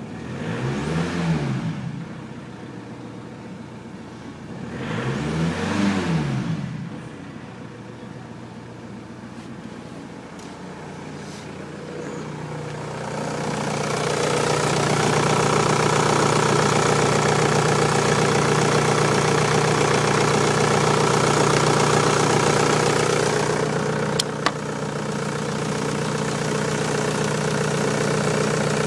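Ford Galaxy 1.9 TDI (AHU) four-cylinder turbodiesel running on test. It is blipped twice, each rev rising and falling within about two seconds, then idles. After that it is brought up to a raised speed and held there for about ten seconds. It drops back with a single sharp click and settles to a steady run.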